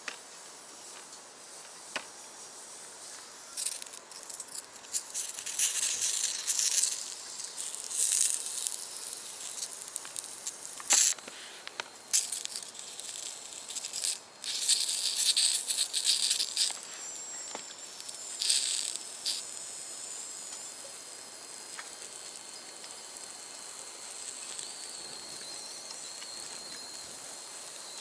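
Food sizzling in a hot cast-iron skillet in irregular bursts of hiss, with a few sharp crackles. The sizzle settles to a softer steady hiss for the last third.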